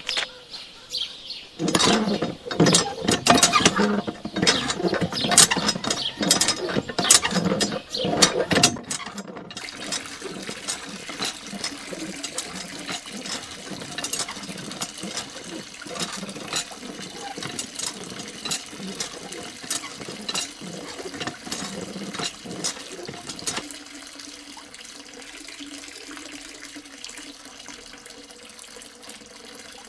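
Loud rapid crunching and clicking for the first several seconds. Then, from about ten seconds in, a thin stream of water trickles and splashes steadily from a miniature hand-pump spout into a small pond, growing quieter near the end.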